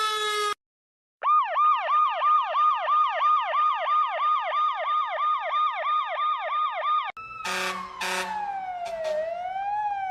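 Electronic emergency-vehicle sirens, several clips joined by cuts. A falling siren tone stops abruptly, and after a short gap a fast yelp siren sweeps rapidly up and down, about four times a second, for roughly six seconds. Another siren then comes in with two short horn blasts and a slow wail that falls, rises briefly and falls again.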